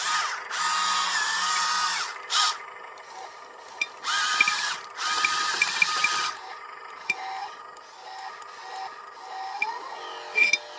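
Electric motors and gearboxes of a small remote-control model excavator whining in three loud bursts of one to two seconds each as it works, then quieter, lower-pitched whirs with a few small clicks.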